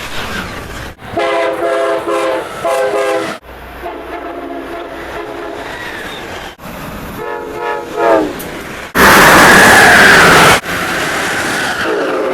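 A sequence of multi-note train horn blasts cut together abruptly: three short blasts, then a longer held chord, then a horn whose pitch falls as the train passes. About nine seconds in, a much louder rushing noise of a train going by at speed lasts a second and a half, then gives way to a steadier rumble.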